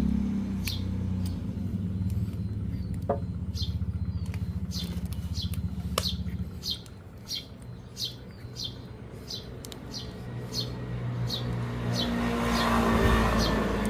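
A motorcycle engine running steadily; it eases off about six and a half seconds in and picks up again near the end. A small bird chirps repeatedly throughout.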